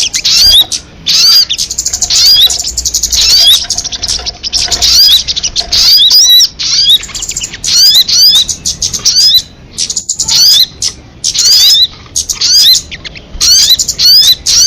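Recorded song of a sogon, a small songbird kept in Indonesia: phrases of rapid, high chirps, each a quick hooked note, repeated for a second or two at a time with short pauses between.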